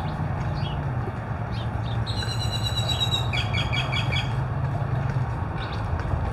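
A bird calling: a held high note about two seconds in, then a quick run of about five short repeated notes, with more short calls near the end. A steady low hum runs underneath.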